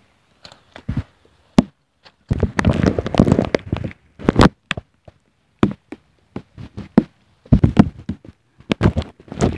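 Footsteps of a hiker going down a mountain trail: irregular steps and knocks, with a longer scuffling stretch about two and a half seconds in.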